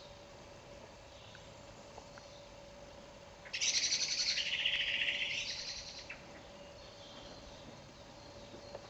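A songbird singing one loud, rapid, trilled phrase about two and a half seconds long, starting about three and a half seconds in. A faint steady hum runs underneath.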